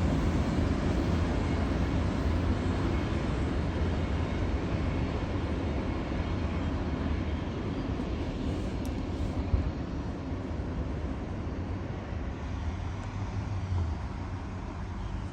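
Westbound BNSF auto rack freight train rolling past, a steady low rumble of wheels on rail that slowly fades as the train moves away.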